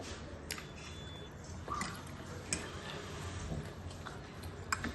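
A few light, sharp clicks of cutlery on a dish, spread out over several seconds, over a low steady hum.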